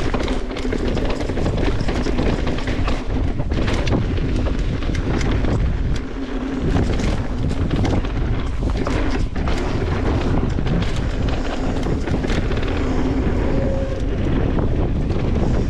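Wind buffeting the camera microphone and knobby tyres rolling over a dirt trail as a mountain bike descends, with steady rattles and knocks from the bike over rough ground.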